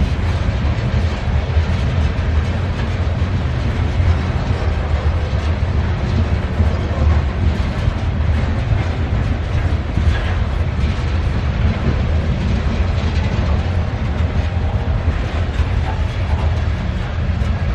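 CSX freight train rolling past at close range: a steady, loud low rumble of wheels on rail, with faint wheel squeals and clicks.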